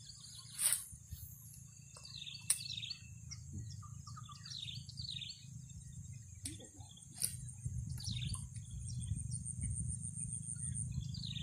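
Small birds chirping, many short falling calls repeated throughout, over a steady high insect buzz and a low rumble. A few sharp clicks stand out.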